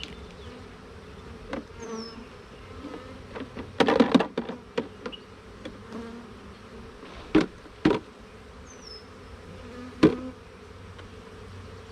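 A mass of honey bees buzzing steadily, with a burst of sharp knocks about four seconds in and three more single knocks later on.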